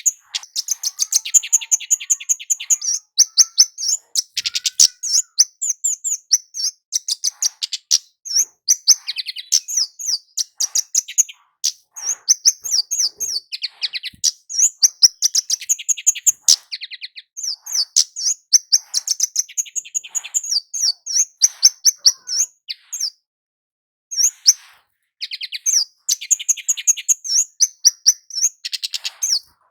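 Kemade (flowerpecker) singing: fast runs of thin, high chips and short trills, broken by brief pauses, with one longer break about three-quarters of the way through.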